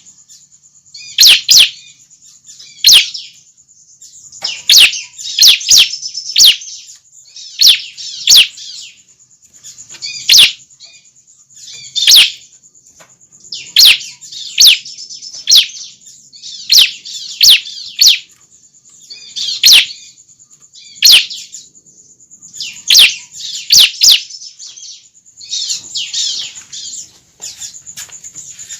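Young ciblek (a prinia) calling: sharp, high chirps, often in quick pairs or threes, repeated every second or two. A steady high hiss runs underneath.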